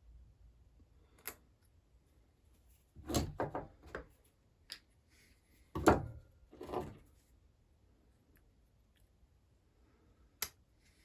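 Small metal chainsaw engine parts being handled and put together on a bench: a string of short clicks and knocks in two clusters, the loudest about six seconds in, and a sharp single click near the end.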